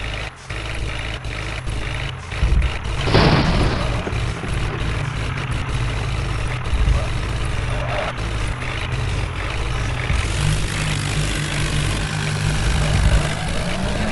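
Diesel engine running steadily, with a short rushing burst about three seconds in and a fainter one near eight seconds.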